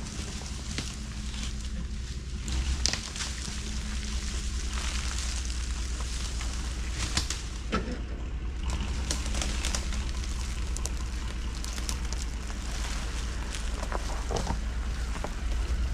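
Truck engine running at low speed, a steady low rumble, with scattered crackles and snaps over it as the truck creeps along.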